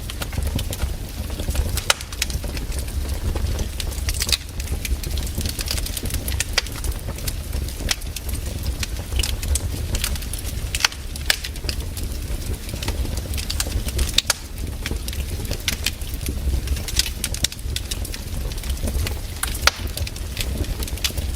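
Wood campfire burning: irregular sharp crackles and pops from the burning wood over a steady low rumble of the flames.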